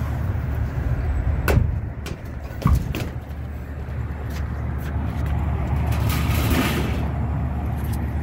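Steady low hum of a Carrier rooftop package unit running, with a few sharp clicks and knocks about one and a half to three seconds in.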